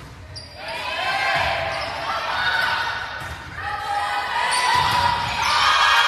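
Volleyball rally in a gym: the ball thumping several times, with players and spectators shouting over it.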